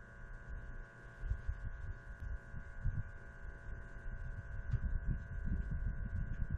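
A steady machine hum with several fixed tones, over an irregular low rumbling that swells and fades.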